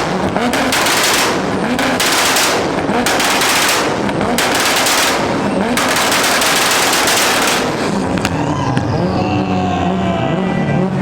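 A tuned car's two-step launch limiter firing: a rapid string of exhaust pops in several long bursts. About eight seconds in the popping stops and the engine is heard revving, its pitch rising and falling.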